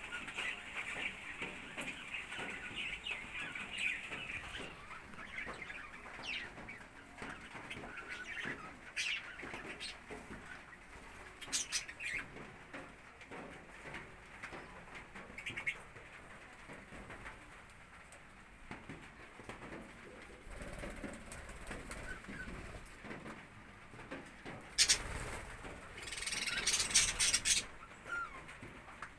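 Budgerigars chattering and chirping, with scattered scratching clicks. Near the end comes a sharp knock, then a couple of seconds of louder rustling.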